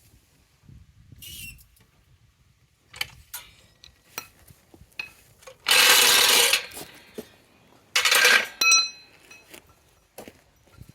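Metal tools clinking and knocking while a car wheel is changed, with two loud noisy bursts of about a second each near the middle and a ringing metallic clink right after the second.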